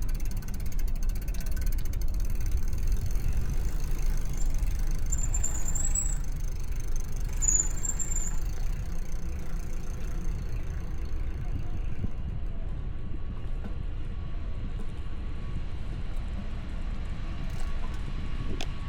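Steady low rumble of wind and street traffic heard from a moving bicycle, with two brief high squeaks about midway.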